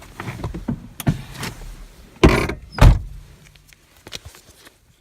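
Knocks and clatter of someone getting into a 2002 Chevrolet S-10 pickup, with two loud thumps a little past the middle, the second a door shutting.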